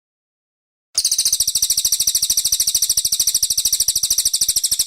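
Brown cililin songbird giving a rapid, even trill of high chirps, about fifteen a second, starting about a second in after silence and cutting off abruptly at the end, as an edited recording does.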